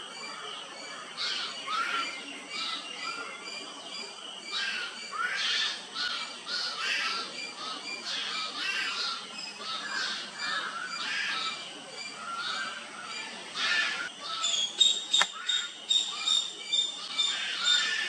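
Fledgling birds begging with harsh, repeated squawking calls to a house crow. A steady high tone joins them about two-thirds of the way in, with a single sharp click soon after.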